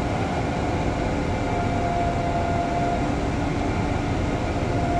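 Steady low rumble and hiss of a running machine, with a faint steady hum whose tone drops out for a while in the middle.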